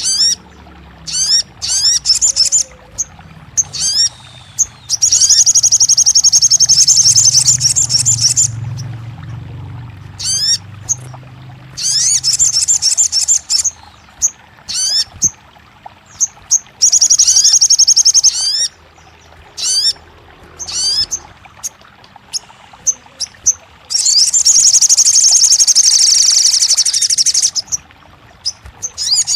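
Crimson sunbird (kolibri sogon) song: bursts of fast, very high trills lasting one to three seconds, separated by single short, sharp chirps.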